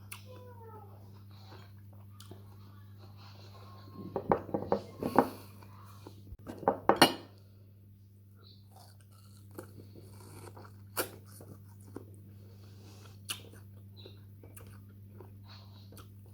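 Close-up eating of ripe mango: wet biting, chewing and sucking on the soft flesh, in two short bursts about four and seven seconds in, with a few lone clicks of the mouth later. A steady low hum runs underneath.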